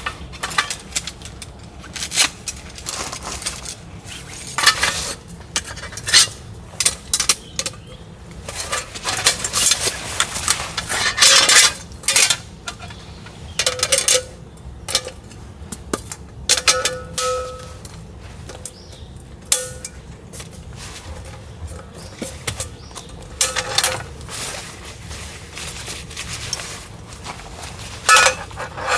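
Camping cookware and utensils being handled: irregular clinks, knocks and clatters, a few with a brief metallic ring.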